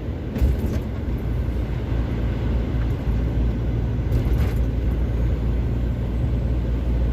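Semi-truck's diesel engine pulling steadily under load up a long hill, heard from inside the cab: a low, even drone that firms up slightly about half a second in, with a faint knock or two.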